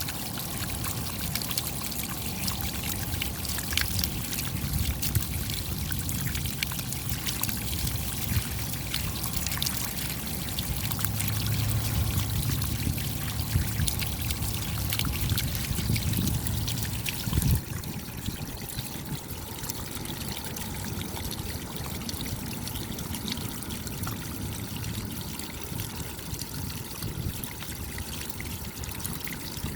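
Rain falling, many separate drops ticking over a steady trickle of running water. A heavier low rumble under it stops suddenly a little past halfway, leaving the rain slightly quieter.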